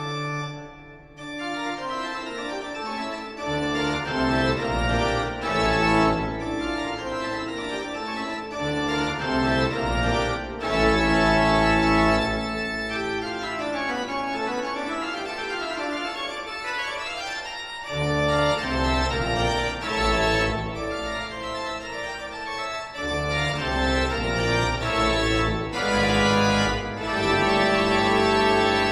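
Instrumental organ music: a melody over sustained chords and changing bass notes.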